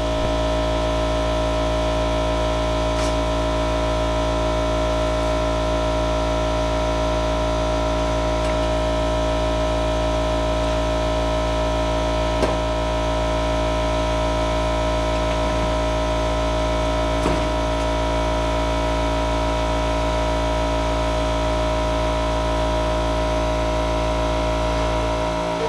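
A machine running steadily at one unchanging speed, a constant hum with two faint clicks about halfway through.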